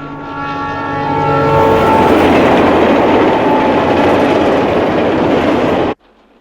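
A passenger train sounds its horn, a chord held for about two seconds, then passes close by with a loud rush and wheel clatter on the rails. The sound cuts off suddenly about six seconds in.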